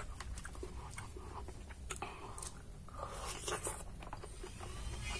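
A person chewing a mouthful of rice and pork belly eaten by hand, with scattered short wet clicks and crunches.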